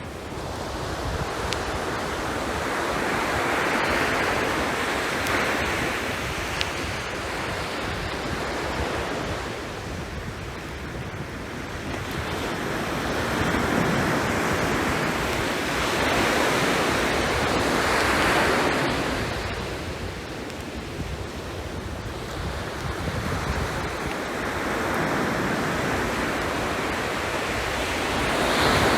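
Sea waves washing onto the shore, the noise swelling and fading in slow surges every five seconds or so, with wind on the microphone and a few faint clicks.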